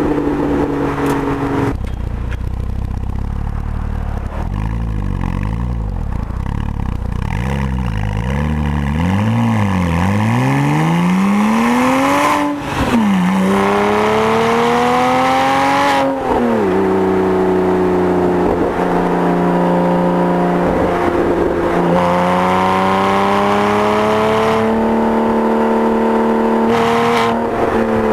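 Porsche 987 flat-six running through a Topgear valved performance exhaust while driving. The pitch wavers low at first, then climbs as the car accelerates, dropping suddenly at a gear change about halfway through and again a few seconds later, before settling into a steady cruise that slowly rises and then dips near the end.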